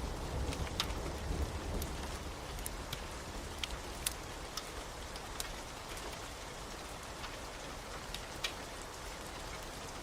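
Steady rain with the irregular sharp pops and snaps of a crackling wood fire scattered through it. A low rumble fades out over the first couple of seconds.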